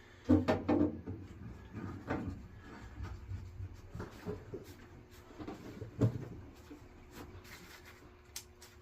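Hands handling gas pipe fittings and tools: scattered knocks, clunks and rubbing, loudest just after the start and again about six seconds in, over a faint steady hum.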